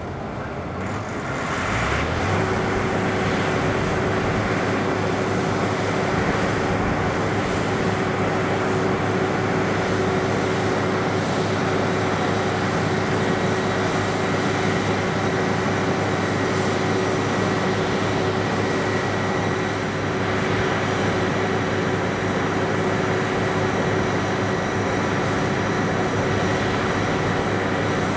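Steady machinery drone with a constant hum running through it, which swells to full level about two seconds in.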